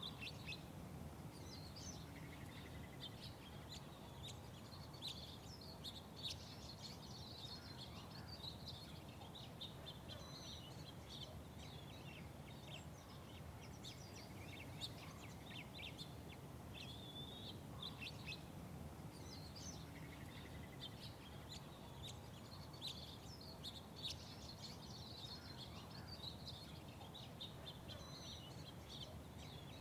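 Many small birds chirping and twittering, with short calls coming thick and fast, over a steady low background rumble.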